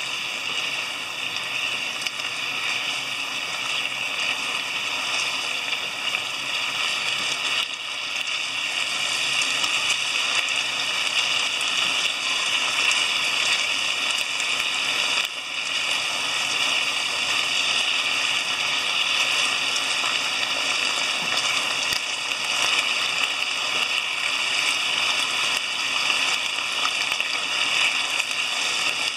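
Chicken thigh, green peppers and mushrooms sizzling steadily in a frying pan with sauce as they are stirred and tossed.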